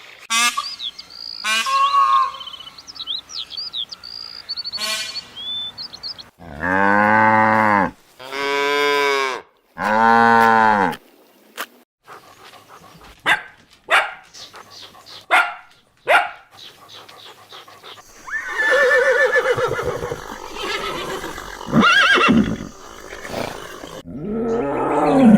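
A run of animal calls: high chirping in the first few seconds, then three long, loud cattle moos about a second and a half each, then shorter sharp calls and mixed animal noise near the end.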